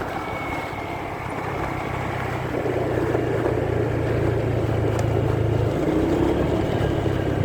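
Motorcycle engine running steadily on the move, a low hum with road and wind rumble, heard muffled from a phone in a pocket; it grows a little louder about two seconds in.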